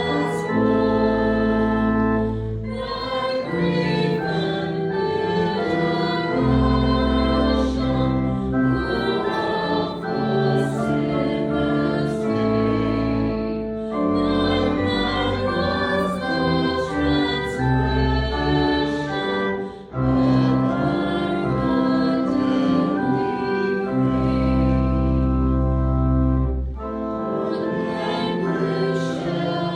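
A hymn sung by many voices with organ accompaniment, in held chords over sustained bass notes, phrase by phrase with short breaks between lines.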